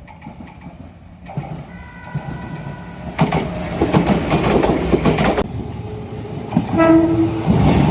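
Shizuoka Railway electric train running past with clattering wheels, loudest in the middle, followed near the end by one short horn blast.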